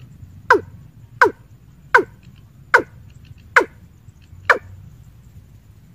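A bird giving a short, sharply falling call over and over, six times, a little under a second apart.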